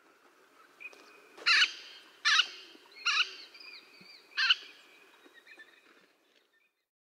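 A bird giving four loud, harsh rasping call notes, three in quick succession about a second apart and a fourth after a short pause, with faint thin whistled notes of other birds behind.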